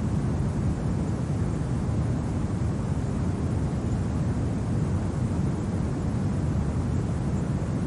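Steady low rumble of winter wind, with no separate gusts or other sounds standing out.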